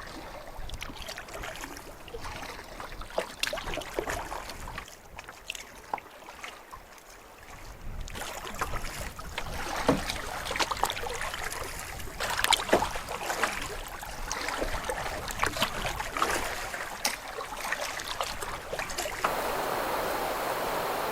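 Canoe being paddled: water splashing and dripping from the paddle strokes, with many small sharp ticks, and the background changing abruptly a few times.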